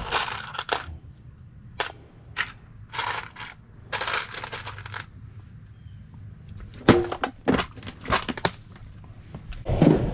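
Irregular sharp metallic clinks and knocks of tools and parts being handled while working on a condenser fan motor, with a quick cluster of clicks about seven seconds in.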